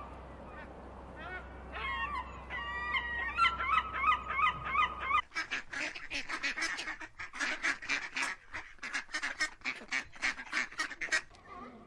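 A flock of gulls calling, with many short gliding cries. About five seconds in, a duck takes over, quacking loudly in a fast run of about three or four quacks a second.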